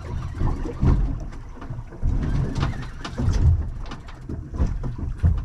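Irregular low buffeting and rumbling aboard a small anchored fishing boat, with scattered knocks and clicks as tackle and the catch are handled.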